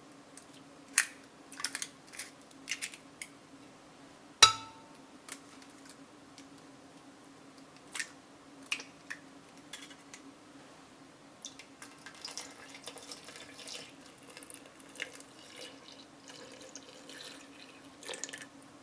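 Kitchen handling sounds: scattered light clicks and knocks of glassware and dishes, with one sharper clink about four and a half seconds in that rings briefly, and a stretch of softer clattering and trickling in the second half. A faint steady hum runs underneath.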